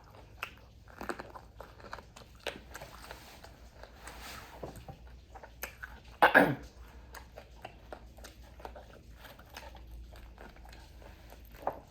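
Close-up mouth sounds of someone chewing and biting crispy fried food, with many small crunches and wet clicks. There is a brief hum about six seconds in.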